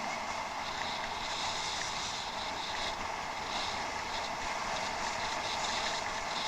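Steady rushing noise of riding a bicycle, heard through a head-mounted action camera: wind over the camera and the tyres rolling, with a few faint light ticks.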